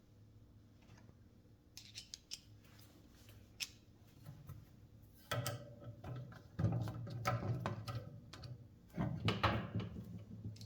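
Small metal tools and fan motor parts being handled, with scattered clicks, then busier clattering and rattling from about halfway through.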